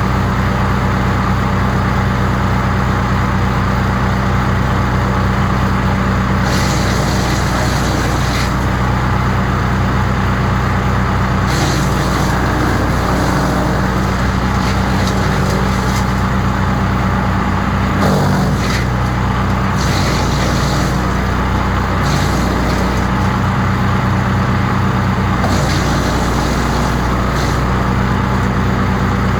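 Crytec 15 hp wood chipper's petrol engine running steadily at speed. Several times, bursts of higher rushing noise come and go over the engine.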